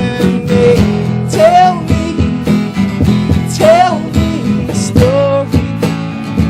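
A band playing a song, led by steadily strummed acoustic guitar, with a melody line over it that slides between notes a few times.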